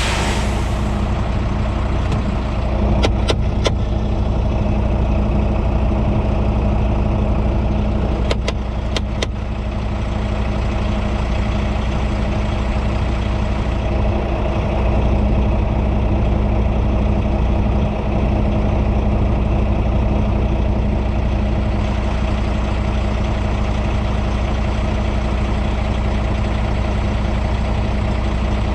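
Semi truck's diesel engine idling steadily, with a few short clicks about three seconds in and again around nine seconds.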